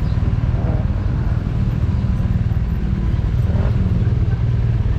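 BMW R nineT's air- and oil-cooled boxer twin idling steadily at a standstill, a low, even rumble; the rider says it keeps overheating while idling at traffic lights.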